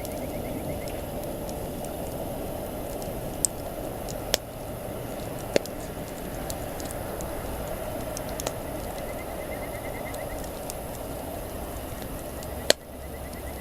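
Wood campfire burning with a steady crackle and a few sharp pops, the loudest near the end.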